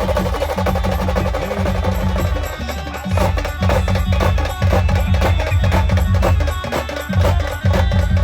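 Band music for dancing: fast, dense percussion over a heavy bass line that changes note every second or two.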